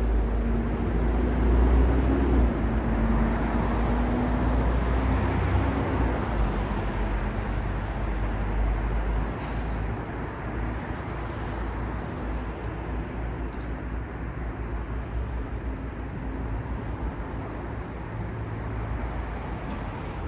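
City road traffic with a heavy vehicle's engine humming and rumbling close by, then easing off about halfway through. A short high hiss comes just before it fades.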